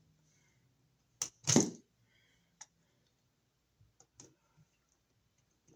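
Scattered small clicks and taps of a screwdriver and copper wire being worked at a wall receptacle's screw terminal. The loudest is a sharp knock about a second and a half in, with fainter ticks after it.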